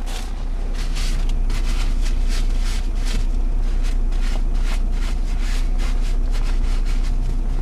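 Steady low rumble inside a car with the engine running, with irregular small rustles and clicks over it.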